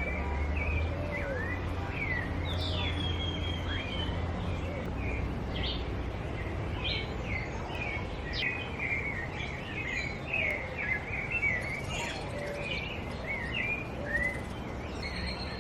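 Several birds calling with many short chirps and whistled sweeps that overlap, the calls growing busier in the second half. A low steady rumble sits under them for the first few seconds and fades.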